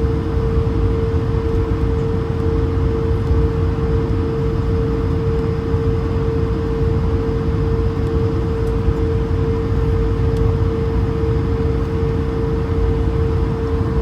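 Steady cabin noise of an Airbus A220 airliner heard from inside the cabin: a low, even rumble of its Pratt & Whitney PW1500G geared turbofan engines and airflow, with one steady hum running through it.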